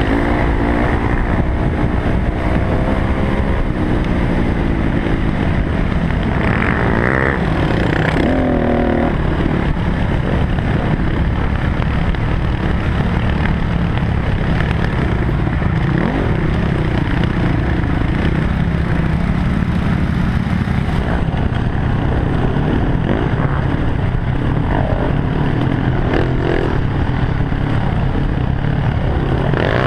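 Dirt bike engine running under load while being ridden, its pitch rising and falling as the throttle is worked, with a sharper climb near the start and another about eight seconds in.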